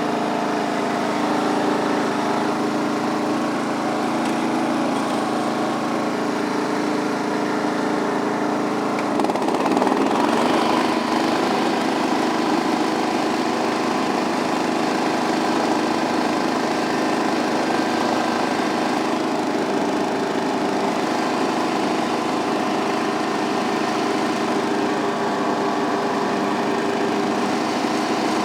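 John Deere 325 lawn tractor's 17 hp Kawasaki overhead-valve engine running steadily, then revving up to a higher speed about nine seconds in and holding there.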